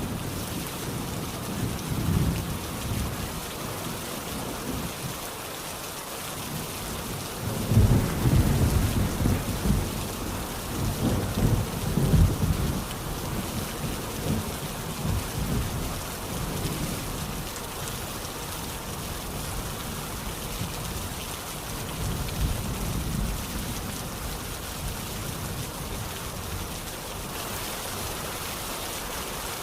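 Steady rain with rolling thunder rumbling low underneath. The thunder swells and fades several times, with the longest, loudest roll about a third of the way through.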